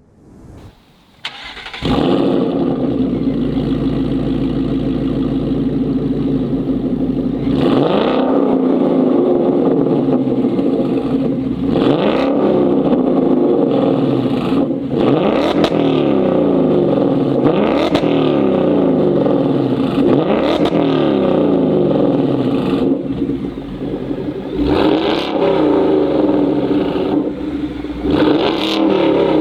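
Ford S650 Mustang GT's 5.0-litre V8 through an AWE catback exhaust, starting up with a brief flare and settling into a steady idle. From about eight seconds in, it is blipped repeatedly in quick free revs, the pitch rising and falling back every few seconds.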